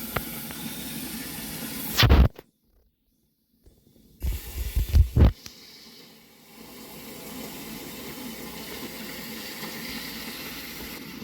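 Water running steadily into a fish tank as it is being filled. There is a loud knock near 2 s and a burst of knocks around 4 to 5 s, with the sound cutting out briefly between them.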